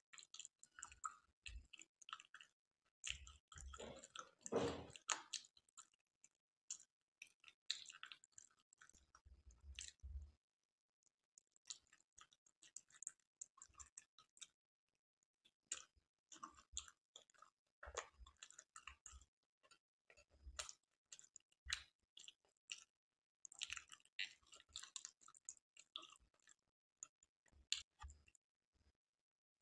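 Quiet, close-miked mouth sounds of a person chewing kala jamun: irregular short smacks and clicks, loudest about four to five seconds in, with a couple of brief pauses.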